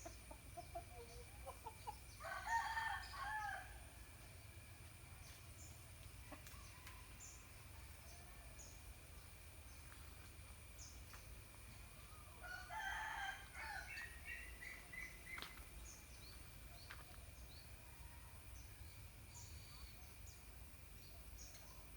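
A rooster crowing twice, about two seconds in and again about halfway through, each crow lasting a second or two. Faint short high chirps and a steady thin whine run underneath.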